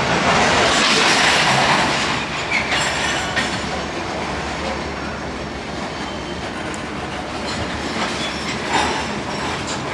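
Union Pacific freight train of loaded covered hopper grain cars rolling past, wheels clattering steadily over the rail joints. The rolling noise is loudest in the first couple of seconds, with a few brief wheel squeals.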